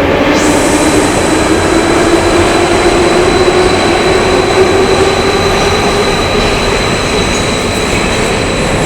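A metro train running along the platform, loud. Its traction motors give a whine that slowly rises in pitch over the first few seconds and then fades, over a steady high whistle.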